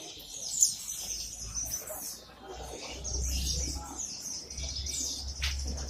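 Caged white-eyes (pleci) twittering: a run of quick, high, overlapping chirps and short trills from several birds.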